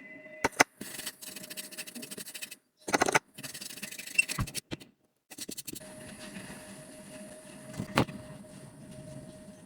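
Small clicks and short scraping sounds of hand tools working on a smartphone during repair, broken by sudden cuts to silence, over a faint steady tone.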